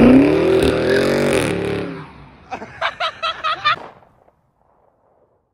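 Dodge Charger Scat Pack's 392 HEMI V8 accelerating away, its note climbing, then levelling off and fading out within about two seconds. Then a short run of quick electronic blips.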